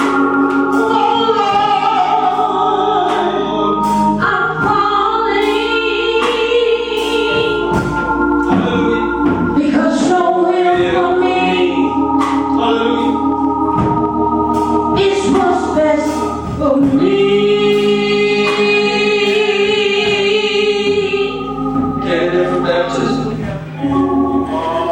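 Gospel choir singing in church, voices holding long notes with vibrato.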